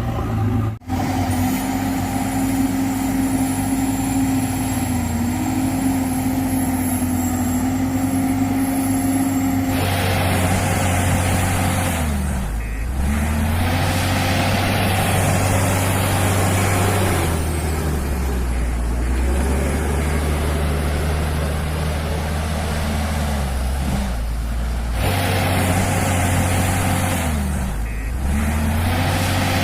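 Diesel engine of a JCB loader running steadily. Its pitch drops and picks up again several times as the machine works under changing load, and the sound cuts out for an instant about a second in.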